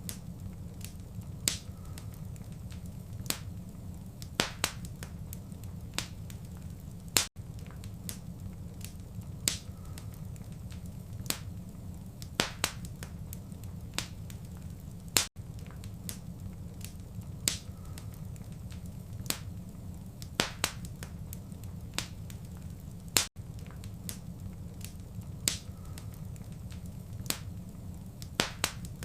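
Wood fire crackling, with sharp scattered pops and snaps over a steady low rumble. The sound cuts out for an instant about every eight seconds, where the recording loops.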